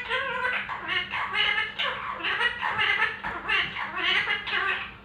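A pet parrot chattering in a quick string of short, speech-like calls, mimicking human talk.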